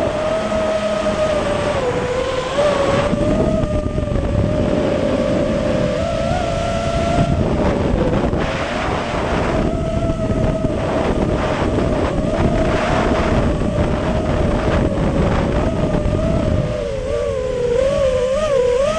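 Quadcopter's Emax 2205 2300kv brushless motors spinning DALProp T5046C props in flight, a steady whine whose pitch wavers up and down with throttle, with wind buffeting the microphone.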